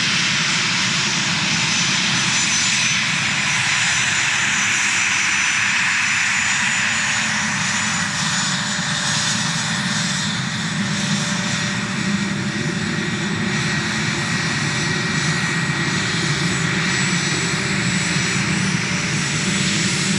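A-10 Thunderbolt II "Warthog"'s twin turbofan engines running steadily: a loud, even rush with a thin high whine over it.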